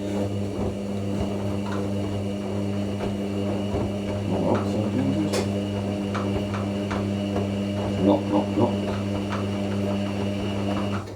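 Hoover NeXtra front-loading washing machine in its wash phase, its drum motor humming steadily while the heavy, wet load knocks and splashes inside. The hum stops abruptly near the end as the drum pauses.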